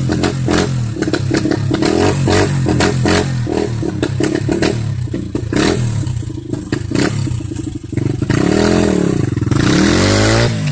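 Honda CRF110's small single-cylinder four-stroke engine running unevenly on a cold start, then revved up and back down once about eight seconds in.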